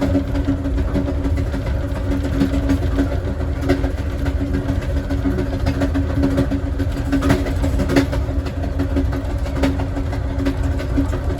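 Running noise from the last car of the Southwest Chief passenger train: a steady deep rumble of the wheels on the track under a constant hum, with scattered faint clicks.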